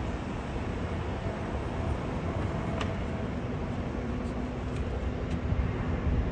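Steady low rumble of jet aircraft engines, with a faint constant hum over it and a few light ticks in the middle.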